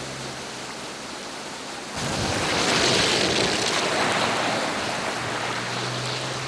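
Storm noise: a rushing wash of wind and water that surges suddenly louder about two seconds in, then slowly eases. A faint low steady hum sits underneath at the start and near the end.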